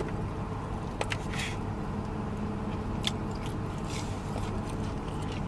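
Close chewing and mouth smacks of a man eating, with a few short sharp clicks, over a steady low hum.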